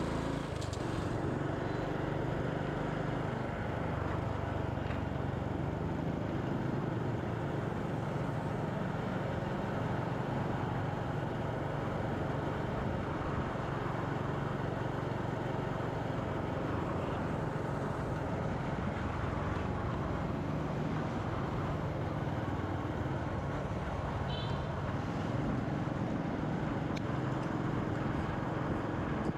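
Motorcycle engine running steadily under way, with road and wind noise. A brief high squeak sounds about three quarters of the way through.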